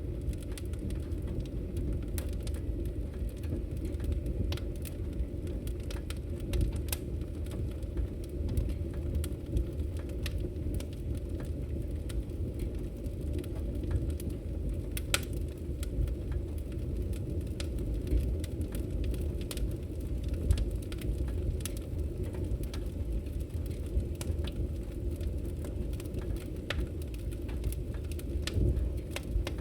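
Wood fire crackling in a fireplace: a steady low rumble under scattered sharp pops and snaps, with one louder pop about halfway through.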